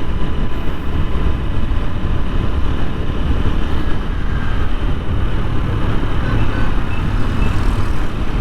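TVS Apache 160 4V motorcycle running steadily while being ridden, heard from a helmet chin-mount camera, with heavy low rumbling wind rush on the microphone.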